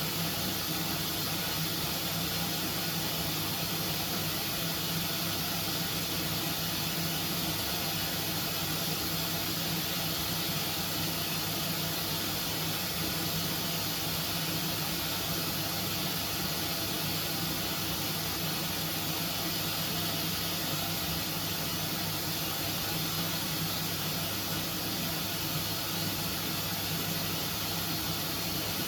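Dishwasher running through its wash cycle: a steady hiss of water spray over the even hum of its pump motor.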